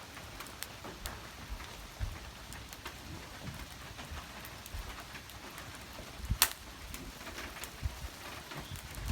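Wood fire crackling: a steady low hiss with scattered pops and one loud sharp crack about six seconds in.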